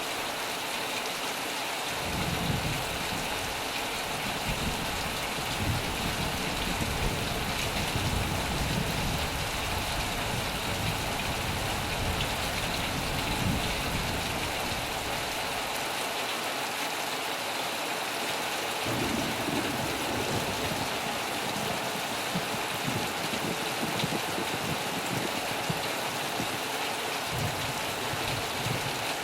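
Heavy rain drumming steadily on a metal roof, with low rumbles of thunder rolling in about two seconds in, easing off around the middle and returning later.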